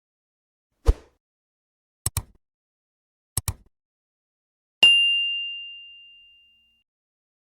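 A low thump, then two quick double clicks, then a single bright bell-like ding that rings out on one tone and fades away over about two seconds.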